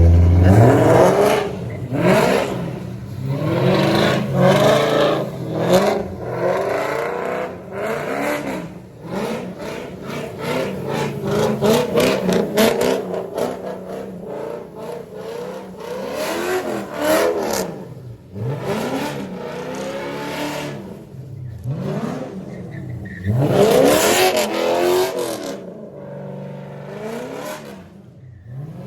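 Car engines revving hard again and again, pitch climbing and falling with each rev, with a run of rapid sharp pops around the middle and a loud surge near the end.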